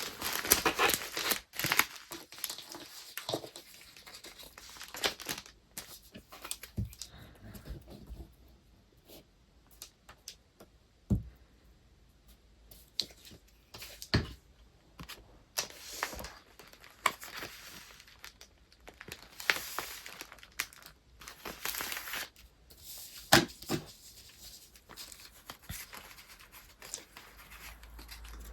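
Paper wrapping being handled and packed by hand: irregular rustling and crinkling of paper, with scattered sharp taps and clicks.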